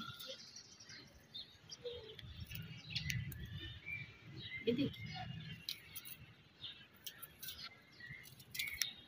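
Small birds chirping off and on, with faint clicks and rustles of a small knife cutting onion by hand over a bowl.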